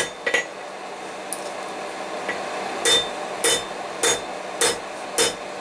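Rounding hammer striking hot square steel bar on an anvil to flatten it, each blow ringing. There are two blows at the start, a pause, then five evenly spaced blows about every half second from about three seconds in.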